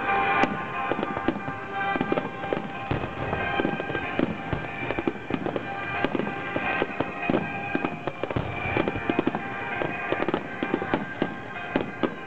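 Fireworks going off in a rapid, continuous barrage of bangs and crackles, with music playing underneath.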